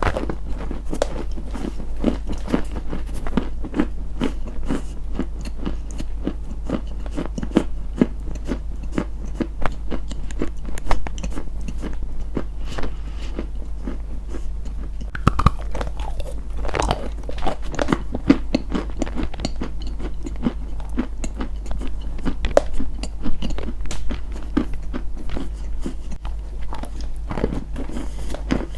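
Close-miked crunching: something hard and brittle being bitten and chewed, a dense run of irregular crisp crunches and crackles with occasional louder snaps.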